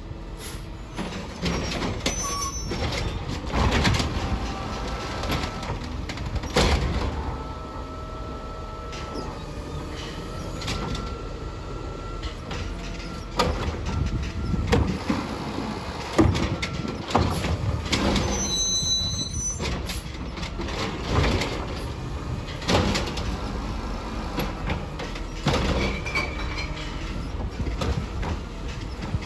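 Garbage truck on recycling collection working a stop: diesel engine running steadily, with repeated clanks and bangs of the bin and its lifting gear. A steady hydraulic whine comes in the middle, and a short high squeal follows a few seconds later.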